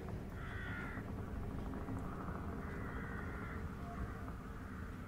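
Steady low hum with two quieter bird calls, about half a second in and again near three seconds.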